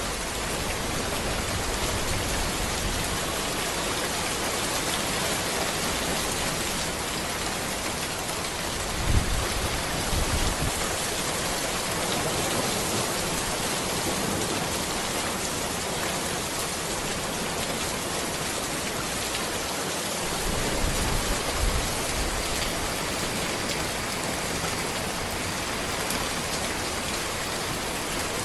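Steady rain falling on a road, an even hiss of drops, with two brief low rumbles: one about a third of the way in and one past two-thirds.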